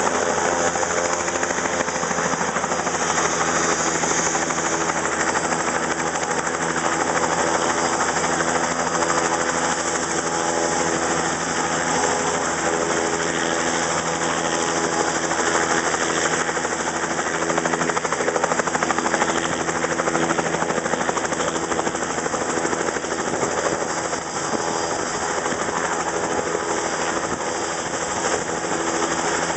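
Helicopter running on the ground with its rotor turning: a loud, steady engine and rotor noise with several steady tones beneath it.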